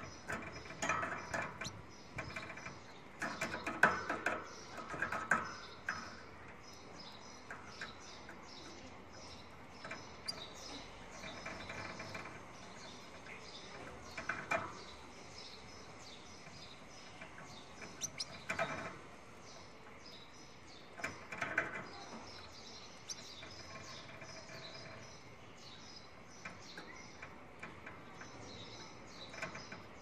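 Small cage birds chirping in quick, high notes throughout, with louder, lower bursts of calls or clatter, most of them in the first few seconds and a few more later.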